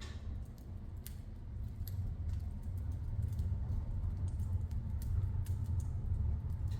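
Firewood burning in an Astov fireplace insert, crackling with irregular sharp pops over a steady low rumble, growing a little louder from about two seconds in.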